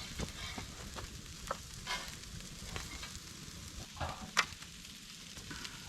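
Wood campfire crackling: irregular sharp pops and snaps over a soft hiss, with one louder snap near the end.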